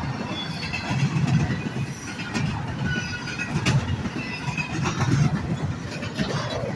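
A train rolling past on the rails: a low rumble that swells and fades, sharp clacks of wheels over the track, and short high squeals from the wheels on the rail.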